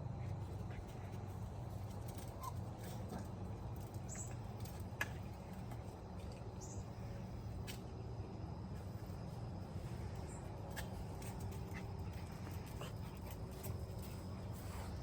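Dogs play-fighting: faint scuffling and light knocks, with a couple of brief high squeaks, over a steady low rumble.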